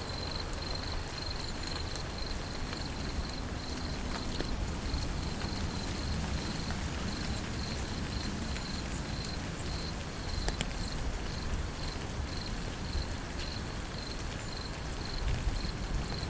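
Steady rain with the odd sharp drop tick, and an insect chirping in a high steady pulse about twice a second over a low rumble.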